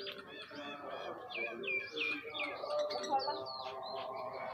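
Several birds chirping and calling at once, a steady run of short, quick chirps, some of them falling in pitch.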